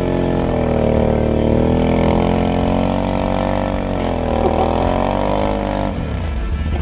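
Can-Am Outlander 650 ATV's V-twin engine running hard in deep snow, its pitch sagging and picking up again twice as the throttle and load change. Near the end the engine note breaks off abruptly and a different steady low drone takes over.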